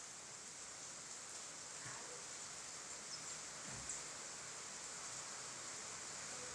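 Faint, steady hiss of rain falling.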